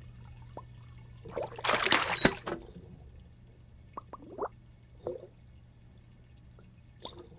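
Cartoon water sound effects: a short splash of water about a second and a half in, then a few scattered drips.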